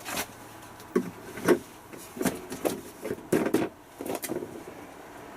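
A run of irregular clunks and taps from plastic being handled as Fairy detergent is added to the washing machine, roughly one knock every half second to second.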